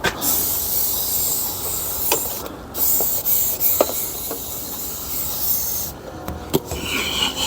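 Pressure washer jet spraying water with a steady hiss. It breaks off briefly about two and a half seconds in and shuts off about six seconds in, with a few short clicks along the way.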